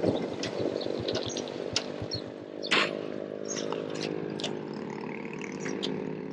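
Twenty-year-old motorbike's engine idling steadily, with scattered sharp clicks and knocks over it.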